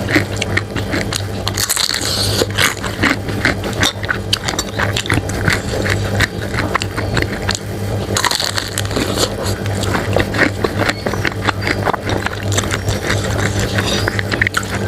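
Close-miked eating of bakso cuanki: chewing with crackly clicks and a spoon scraping the bowl, with two short hissy slurps, over a steady low hum.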